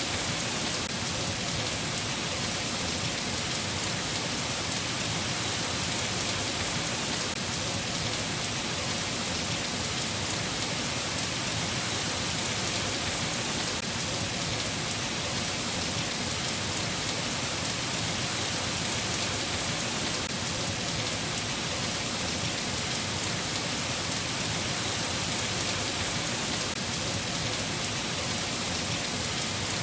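Steady rain falling, an even hiss with no pauses and no thunder claps.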